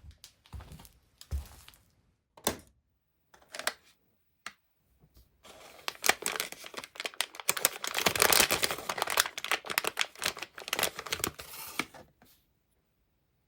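Packaging being handled and opened: a few separate rustles and clicks, then about seven seconds of continuous crinkling and tearing, which ends about a second before the close.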